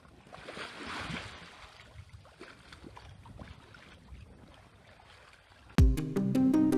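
Faint rushing of floodwater, strongest in the first second, with scattered faint splashes and ticks. Near the end, music with a heavy beat starts suddenly and is the loudest sound.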